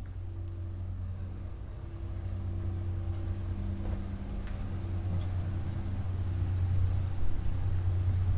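A vehicle engine running with a steady low hum, growing gradually louder.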